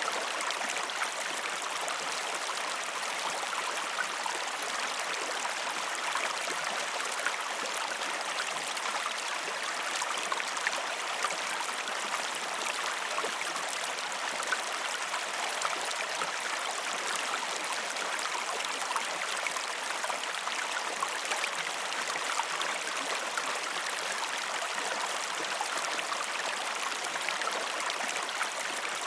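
River water rushing and splashing, a steady even noise dotted with many small splashes and no pauses.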